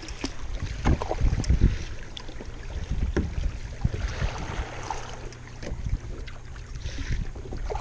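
Kayak paddle blades dipping and splashing in the water in short irregular strokes, over wind buffeting the microphone.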